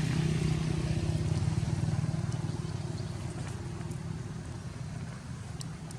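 A motor vehicle's engine running steadily, growing fainter as it moves away.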